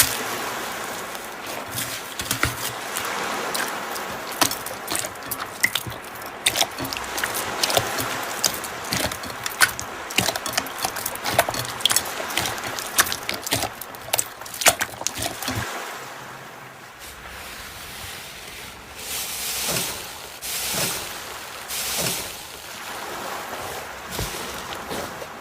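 Slime being squeezed and kneaded by hand: dense crackling clicks for most of the time, giving way about two-thirds in to slower, separate wet squishes.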